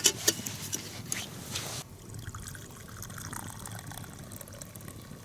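Freshly steeped tea poured from a camping kettle into a mug: a trickle of liquid for the first couple of seconds, with a few light clicks, then it goes quiet.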